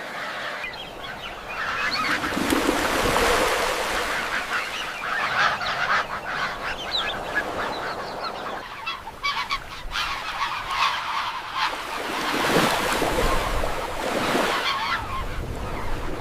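A flock of waterbirds calling over one another in a dense, continuous chorus. The mix changes abruptly about nine seconds in.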